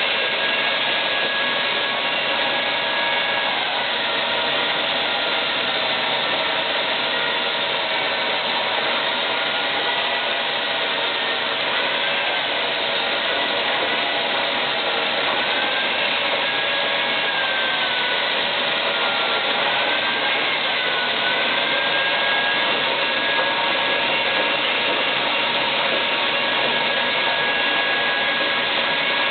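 24-head PET bottle washing machine running: a steady whir and hiss, with faint tones that waver slowly in pitch.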